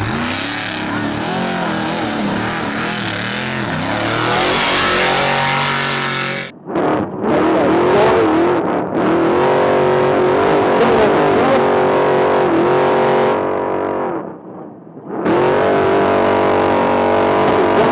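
Off-road trophy truck engine revving hard, its pitch rising and falling as it drives, with a loud rush of noise a few seconds in. The sound breaks off abruptly twice, about six and a half seconds in and again around fourteen seconds, each time picking up again at full revs.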